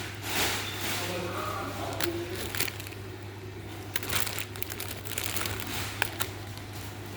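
Crinkling and rustling of something being handled, with scattered sharp clicks, over a steady low hum.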